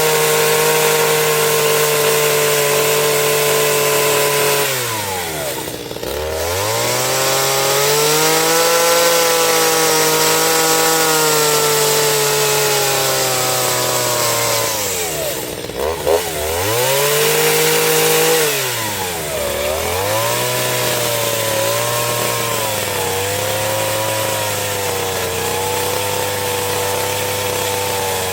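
Chainsaw running at high speed, its pitch dropping sharply and climbing back twice, about five and fifteen seconds in. After the second dip it runs on at a slightly lower, wavering pitch.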